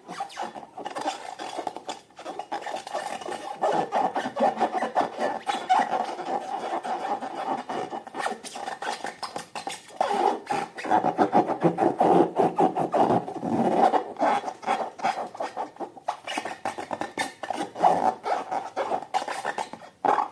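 Slime being worked by hand: continuous rapid sticky clicking and rasping as it is stirred and squished.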